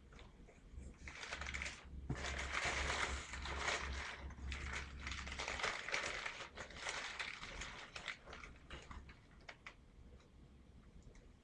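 Packaging being handled and opened by hand: dense rustling and crackling with many small clicks through the first two-thirds, thinning out to a few light clicks near the end.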